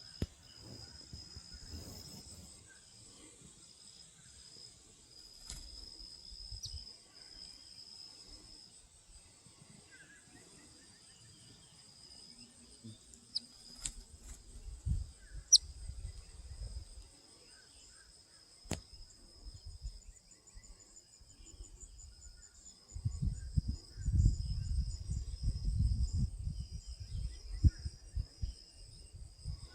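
Insects trilling steadily at a high pitch. A few sharp clicks come in the middle, and loud low rumbling on the microphone sets in near the end.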